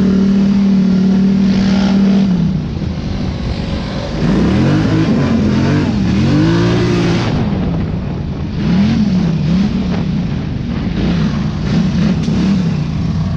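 An off-road vehicle's engine running at a steady high pitch, then revving up and down again and again, its pitch rising and falling.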